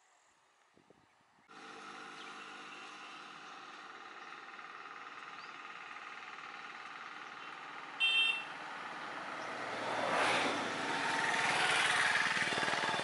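A motor vehicle's engine running steadily, coming in abruptly about a second and a half in and swelling louder near the end as if a vehicle passes close. A brief, loud, high tone cuts through about eight seconds in.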